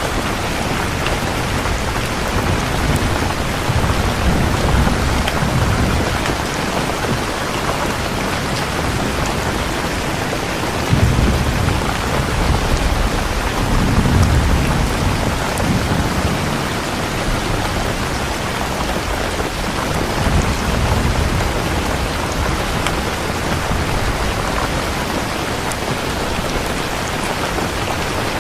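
Steady heavy rain with rolling rumbles of thunder swelling and fading several times.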